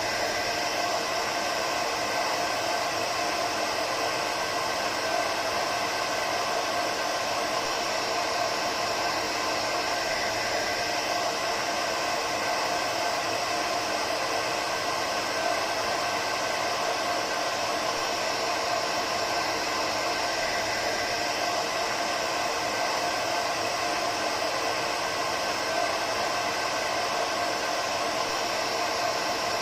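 Hair dryer running steadily, an even blowing hiss with a faint whine held at one pitch.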